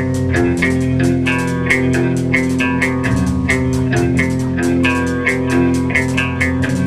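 Rock band playing its original song: guitar and bass over a drum kit keeping a steady beat.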